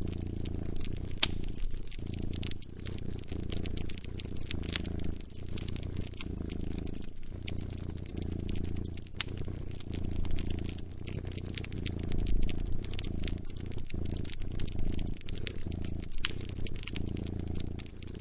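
A cat purring close up, a low steady rumble that pauses briefly about once a second with each breath, mixed with a wood fire's irregular sharp crackles and pops.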